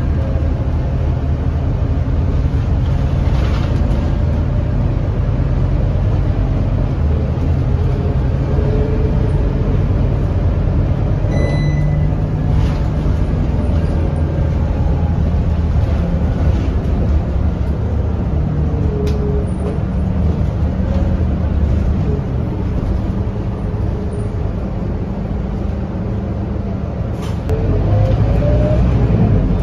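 Scania K230UB city bus's diesel engine running steadily while the bus is under way, with a short high chime about a third of the way through. Near the end the engine note rises and gets louder as the bus accelerates.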